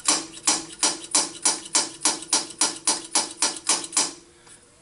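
A blued valve repeatedly tapped down onto its freshly cut seat in a cast-iron Allis Chalmers WC cylinder head to print the contact line: an even run of about fourteen sharp metallic clicks, three or four a second, each with a brief ring, stopping near the end.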